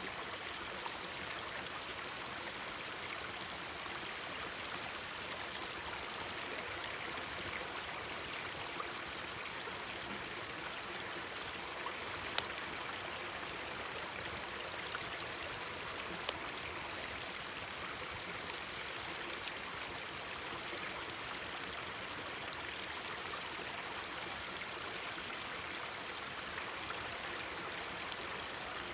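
A mountain stream babbling steadily, with a wood fire crackling now and then in sharp single pops, the loudest about twelve seconds in.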